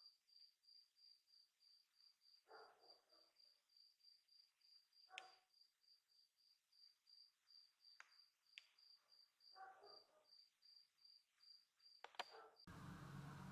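Faint cricket chirping steadily, about four short chirps a second at one high pitch, with a few faint clicks and knocks. Near the end it cuts off suddenly to a steady hiss.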